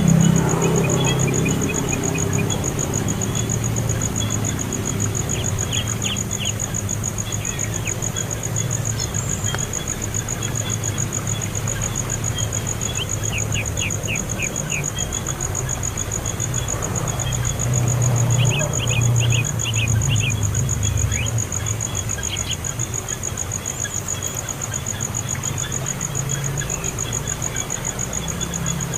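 A small bird giving clusters of quick, high, short chirps every few seconds, over a steady high-pitched whine and a low hum.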